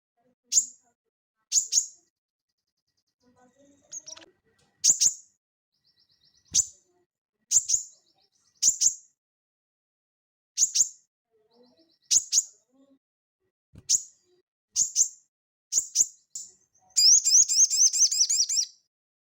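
A sogon (sogok ontong), a small sunbird, calling with a string of sharp, high, single chips at irregular intervals, with faint soft notes between them. Near the end the calls give way to a rapid high trill lasting about a second and a half.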